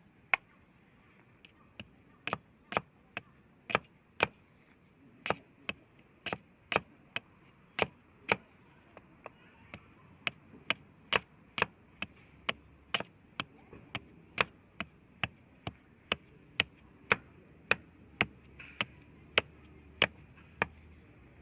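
A long series of sharp chopping strikes, about two a second and uneven in loudness, like a blade striking on wood.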